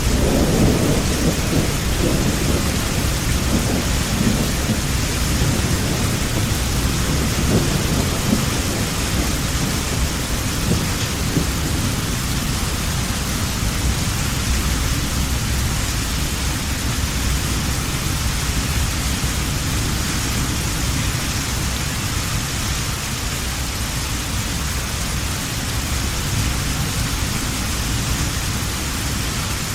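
Steady heavy rain in a thunderstorm, with a low thunder rumble that dies away over the first several seconds, leaving the even hiss of the rain.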